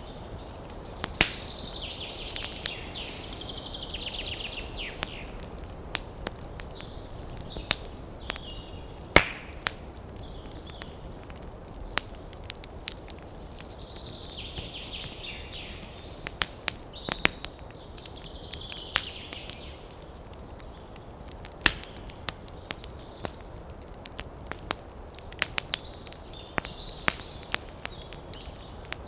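Campfire crackling, with irregular sharp pops and snaps over a steady hiss of wind and fire. High trilling animal calls come and go several times.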